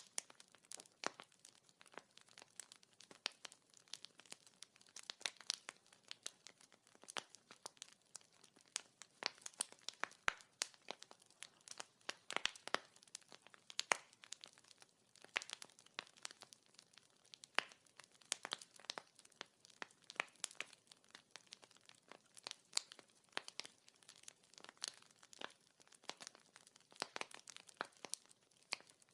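Wood fire crackling: a steady stream of irregular sharp pops and snaps, several a second, over a faint hiss.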